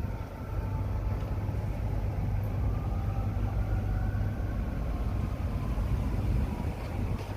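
New York City subway train moving through the station: a steady low rumble of wheels on rail with a faint electric motor whine that rises and falls in pitch.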